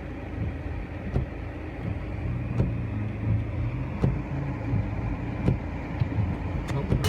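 Car on the move, heard from inside the cabin: a steady low road and engine rumble, with a faint click every second or so.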